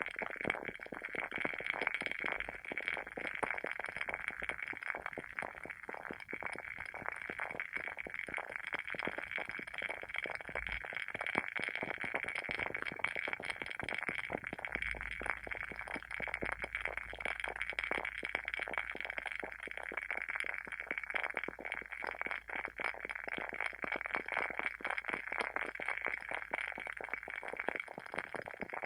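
Wooden wicks of burning WoodWick candles crackling, a dense, unbroken run of small pops and snaps like a bonfire.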